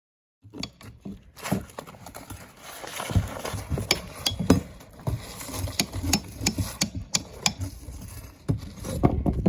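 Irregular knocks, taps and heavier thumps, as of work on a roof, over a low rumble. They start abruptly after a brief silence at the very start.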